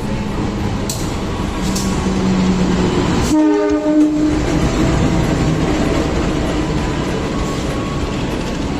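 Train passing close, with a steady rumble of wheels on the rails. Its horn sounds once, for about a second, a little over three seconds in.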